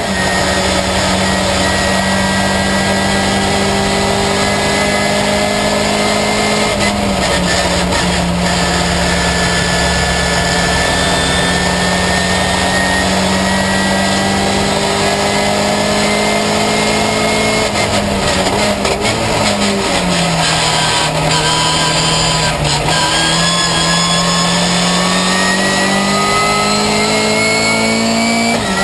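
Ginetta Junior race car engine heard from inside the cockpit under racing load, its pitch climbing slowly as it pulls through the gears. The pitch dips around a quarter of the way in, drops further about two-thirds in, then climbs again, with a few short clicks along the way.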